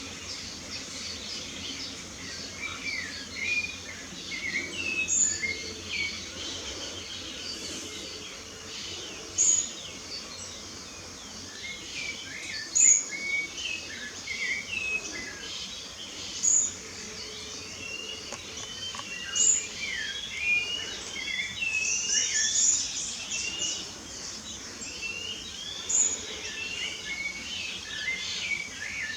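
Several birds singing and chirping together, many short slurred notes overlapping, with one bird giving a short high call every three to four seconds.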